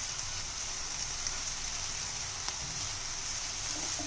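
Chopped onion, green chilli and curry leaves sizzling steadily in hot oil in a non-stick frying pan, being sautéed, while a slotted spatula stirs them with a few light clicks against the pan.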